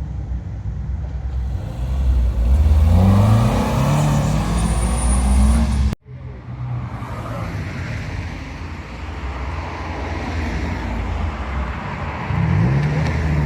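Modified cars' engines revving as they pull away, the pitch climbing a couple of seconds in. The sound cuts off sharply about six seconds in, then engine noise picks up again and revs up once more near the end.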